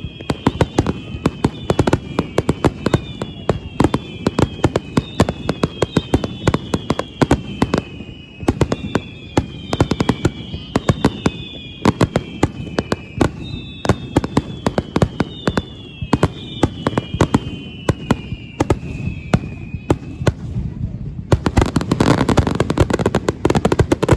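Fireworks going off: a rapid run of bangs and crackles, overlaid by repeated whistles that each fall in pitch over a second or two. Near the end the whistles stop and a denser, louder burst of crackling takes over.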